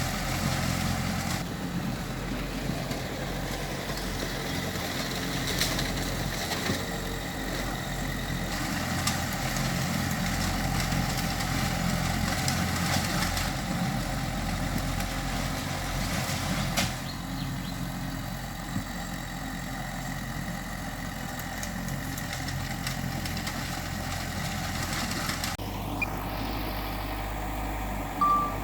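Heavy diesel machinery engines running steadily, a bulldozer and dump trucks at work, with the sound shifting abruptly twice. A vehicle's reversing beeper starts near the end.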